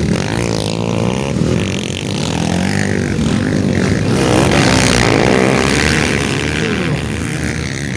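Several motocross motorcycles racing, their engines revving up and down with the throttle and gear changes, loudest about halfway through as they pass.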